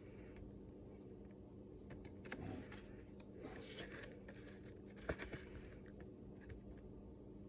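Faint room tone with a low steady hum and a few scattered small clicks and rustles.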